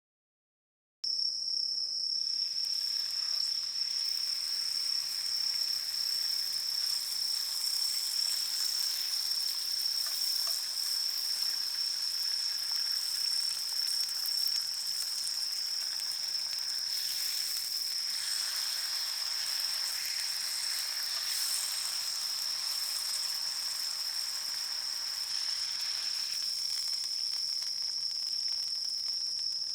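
Insects calling in chorus: one steady, unbroken high-pitched trill with a dense high hiss of insect song around it. It starts abruptly about a second in.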